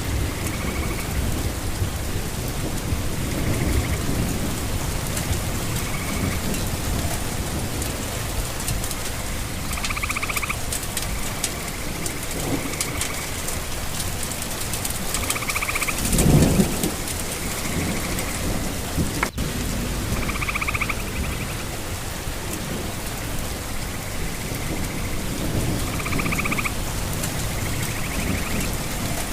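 Steady rain with thunder rumbling low, one louder rumble a little past halfway. A faint short call repeats every two to three seconds, and there is a single sharp click about two-thirds of the way through.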